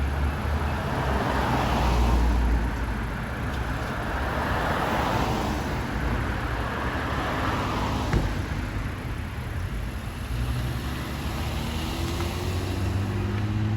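Road traffic: cars driving past with tyre and engine noise, swelling and fading as each goes by. A heavy low rumble fades out in the first couple of seconds.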